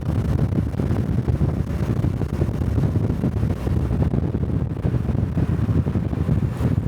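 Wind rumbling on the microphone of a neck-mounted camera while riding a Honda 125 cc Cub motorcycle, with the motorcycle running underneath. The sound is a steady low rumble.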